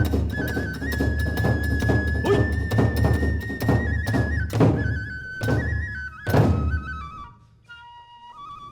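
Kagura ensemble: a bamboo transverse flute holds a high melody over steady drum and hand-cymbal beats. The music closes on three heavy drum strikes about five to six and a half seconds in, then the percussion stops and the flute carries on alone, softer and lower.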